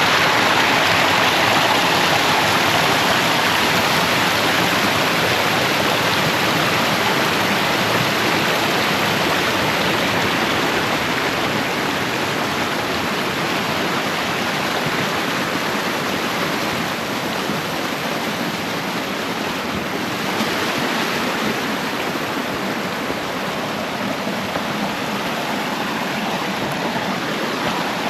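Hill-stream waterfall rushing steadily, a continuous hiss of falling water that eases a little toward the end.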